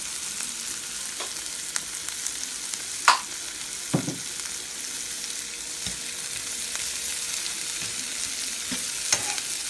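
Sliced onion, carrot and scallion sizzling in hot oil in a frying pan, a steady hiss. A few sharp clicks and knocks cut through it, the loudest about three seconds in, and the vegetables are stirred near the end.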